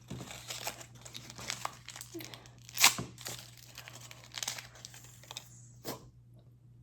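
Toy packaging crinkling and tearing as a wrapper is opened by hand, in irregular crackles with one louder rip about three seconds in, stopping about a second before the end.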